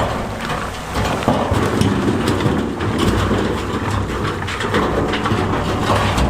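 Heavy earthmoving machinery running with a steady low engine drone, while loose stone clatters and grinds in many small knocks.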